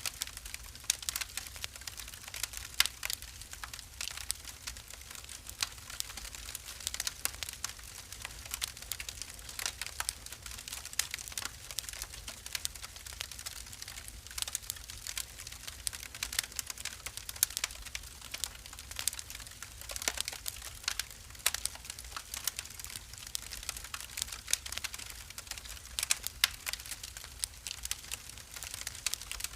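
Wood fire burning in a fireplace, crackling with many small irregular pops and snaps over a low, steady rumble.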